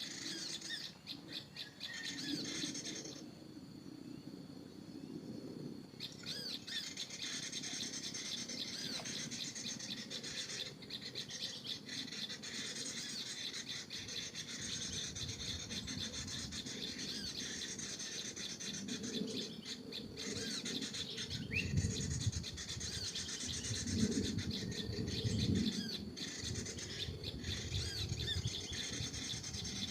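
Small birds chirping and twittering in a steady run of high, repeated calls, breaking off for a few seconds near the start. Low rustling underneath, louder in the second half.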